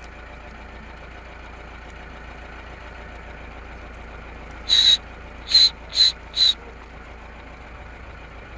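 Four short, shrill whistles in quick succession about five seconds in, the first a little longer than the others, over the steady low hum of an idling engine.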